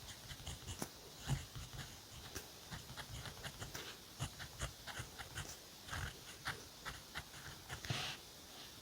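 Pen nib scratching across notebook paper in short, irregular strokes, with soft knocks of the pen and hand against the page.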